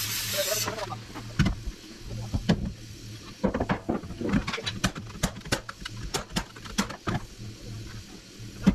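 Carpentry framing work on a wooden floor deck: a hiss that cuts off under a second in, then a run of sharp, irregular knocks and taps, loudest near the end, over a steady low hum.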